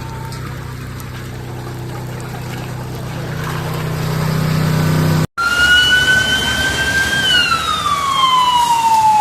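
A low steady hum with rushing noise that slowly grows louder. After an abrupt cut comes an emergency vehicle siren in a slow wail, rising slightly and then sliding down in pitch over a few seconds.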